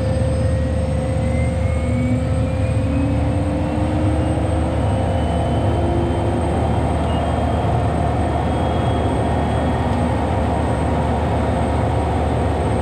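Rolls-Royce Allison turbine engine of a Soloy-converted Cessna 206 running steadily after start: a loud, even rumble with a steady high whine, and fainter whines slowly rising in pitch.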